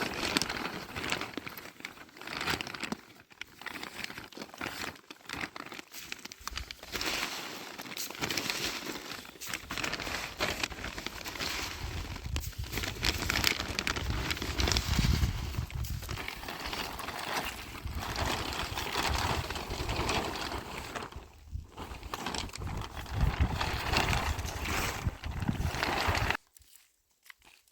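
Continuous dry rustling and crackling with low thumps, stopping abruptly near the end.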